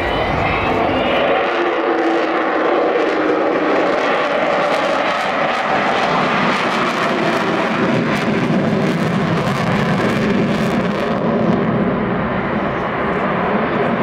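Avro Vulcan jet bomber's four Rolls-Royce Olympus turbojets roaring loudly and steadily in a flypast. A falling whistle is heard near the start, and the roar deepens in pitch over the later seconds.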